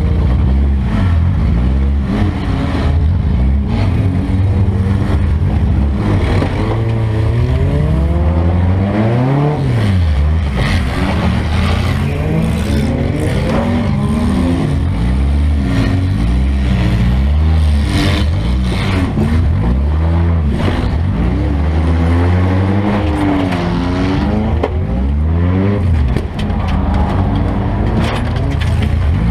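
Several demolition derby car engines revving, their pitch rising and falling and overlapping, heard from inside a gutted derby car, with scattered knocks and clanks of metal.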